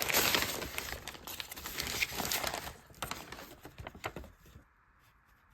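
Packaging crinkling and rustling with small clicks as a parcel is cut open and handled, dying away about four seconds in.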